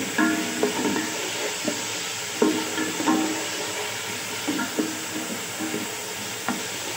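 Onion-tomato masala with green chillies sizzling as it fries in oil in a pot: a steady frying hiss with a few short, sharper sounds over it now and then.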